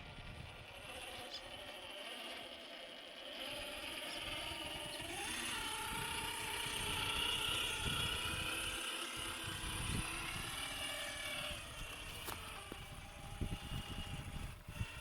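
Electric drive motor and geared drivetrain of a Rlaarlo JK07PRO 1/7-scale RC trail truck whining as it crawls, the pitch climbing about five seconds in and the whine loudest in the middle, with crunching and knocks from the tyres on rough ground.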